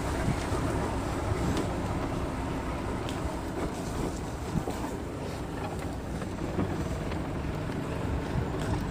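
Safari vehicle driving along a forest track: a steady low rumble of engine and tyres, with wind buffeting the microphone and a few faint rattles and clicks.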